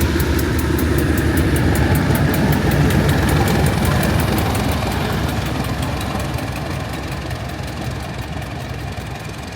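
Heritage diesel locomotive engine running with a deep rumble and a fast regular ticking. The sound fades steadily through the second half.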